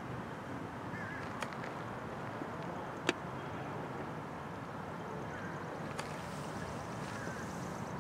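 Double-stack container train rolling slowly past: a steady rumble and rush of steel wheels on rail, broken by a few sharp clicks, the loudest about three seconds in.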